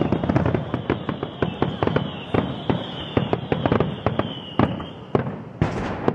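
Fireworks and firecrackers going off in a rapid, irregular string of sharp bangs and crackles, over a high whistle that sinks slightly in pitch and stops near the end. A louder rushing burst follows just before the end.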